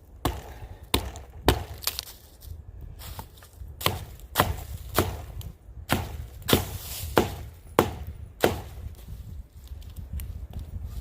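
A wooden baton striking the spine of a pocket knife, driving the blade into the dead wood of a standing tree to chop out a felling notch. It gives a dozen or so sharp wooden knocks about one a second, easing off in the last couple of seconds.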